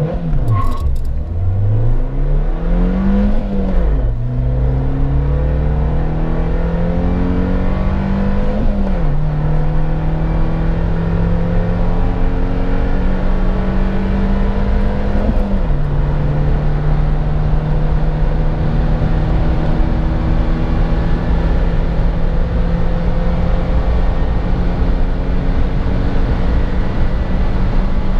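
Suzuki Jimny's 1.5-litre four-cylinder engine under hard acceleration, rising in pitch through the gears with three upshifts, about 4, 9 and 15 seconds in. After the last shift it pulls on long and steadily in a high gear, the note slowly climbing as speed builds toward 160 km/h.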